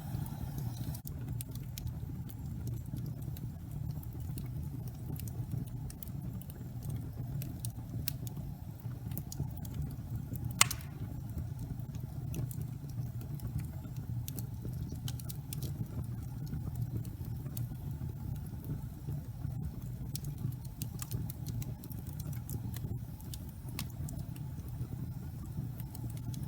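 Fire burning in a fireplace: a steady low rumble of flames with scattered small crackles and one sharper pop about ten seconds in.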